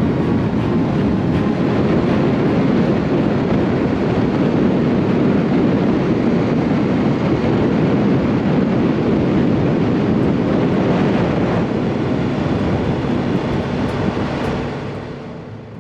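Motorcycle riding at speed: a steady rush of wind and road noise over the engine, dying away near the end as the bike slows.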